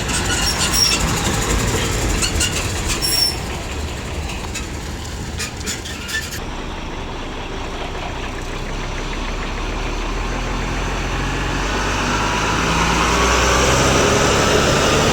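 Heavy truck on the road: engine rumble and road noise, with a few clattering knocks in the first several seconds. Toward the end the noise grows louder and a rising whine comes in.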